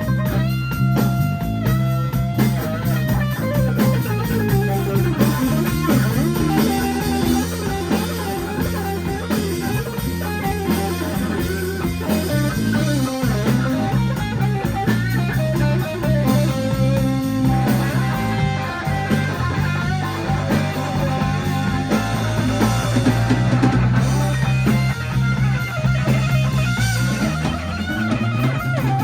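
Live blues-rock band playing an instrumental break: an electric guitar solo with bent and sliding notes over bass and a drum kit.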